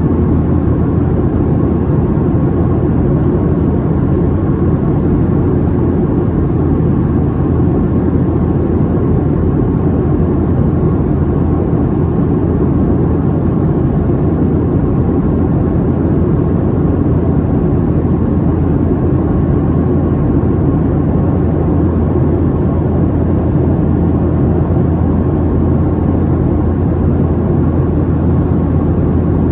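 Steady cabin drone inside a Boeing 737-700 in flight: the hum of its CFM56-7B turbofan engines and the rush of air, heaviest in the low end, with a faint steady whine above it.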